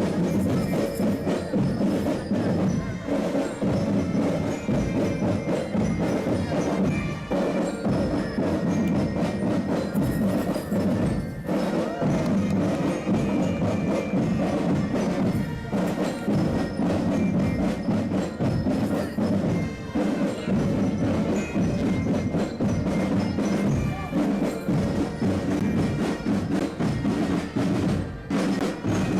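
Military marching band music: drums and percussion beating with a bright, bell-like melody over it.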